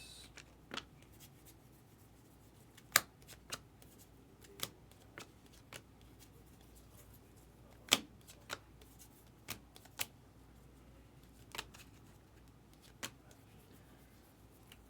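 Trading cards being flipped and slid through by hand, a run of scattered light snaps and clicks of card edges, with two louder snaps about three and eight seconds in.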